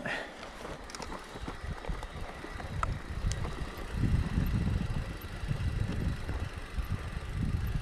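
Riding noise from a mountain bike on a dirt trail: a low, uneven rumble of tyres and wind buffeting the microphone, with a few light rattles, getting louder about four seconds in.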